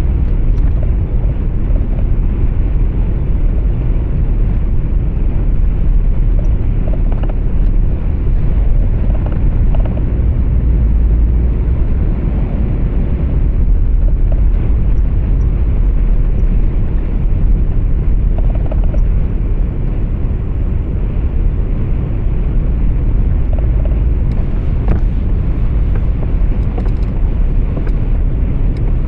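Steady, loud low rumble of engine and road noise heard from inside a truck's cab while driving.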